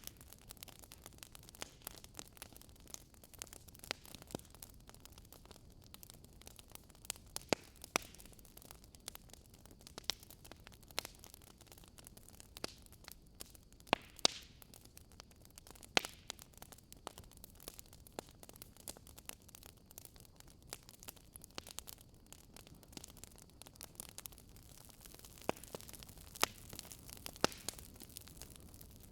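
Campfire crackling: irregular sharp pops and snaps of burning wood over a soft steady hiss, with a few louder snaps around the middle and again near the end.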